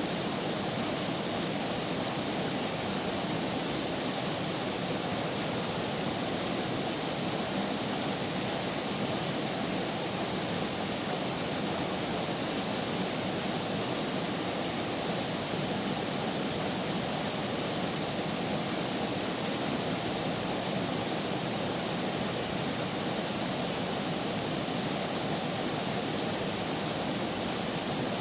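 Flowing river water, a steady even rushing with no breaks or changes.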